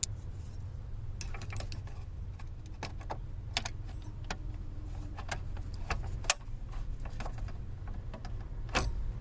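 Scattered small clicks and light metallic rattles of parts being handled and fitted into a car's steering column, with a sharper click about six seconds in and a quick cluster near the end, over a steady low hum.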